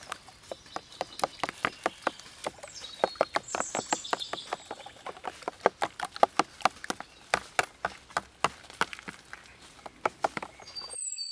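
Rapid, irregular knocks of a knife chopping on a wooden cutting board, a few strokes a second. A bird chirps briefly about three seconds in, and the chopping cuts off suddenly just before the end.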